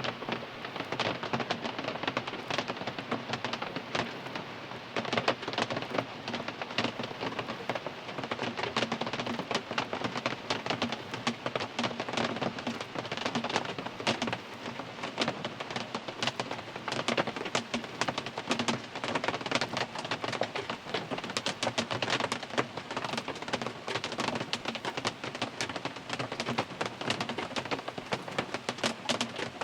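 Steady rain falling on a car, heard from inside the cabin: a dense patter of individual drop hits over a constant hiss.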